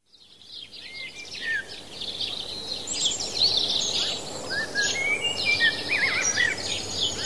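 Several songbirds chirping and singing in quick, overlapping phrases over a steady outdoor hiss, fading in from silence at the start.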